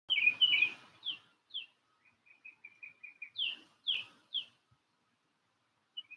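A songbird singing: clear slurred whistles, a quick run of short repeated notes in the middle, then three louder downslurred whistles about half a second apart.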